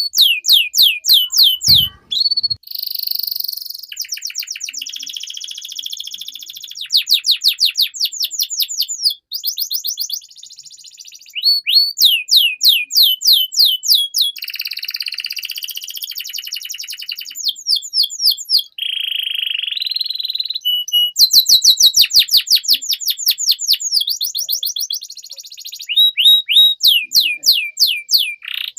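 Domestic canary singing a long, continuous song: fast trills of repeated downward-sweeping notes alternate with buzzy rolling phrases, with only brief pauses between phrases.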